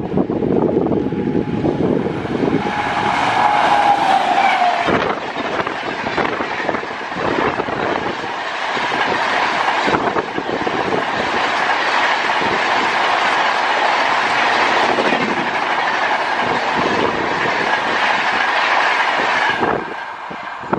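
An express train passing at high speed, its wheels clattering over the rail joints in a steady run of clacks. A brief falling tone sounds a few seconds in. The clatter drops off sharply near the end as the last coach goes by.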